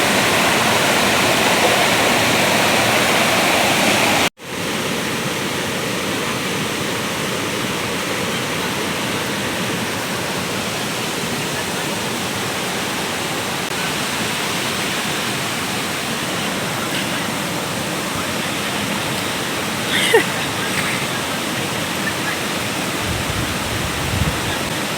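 Steady rush of water from a small waterfall. It cuts out for an instant about four seconds in and comes back a little quieter.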